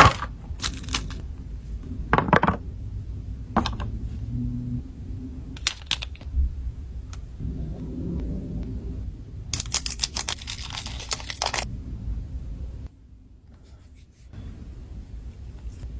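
Slime being squeezed and poked by hand, giving bursts of crackling clicks and pops over a low rumble, with a denser run of crackles past the middle and a brief quieter stretch near the end.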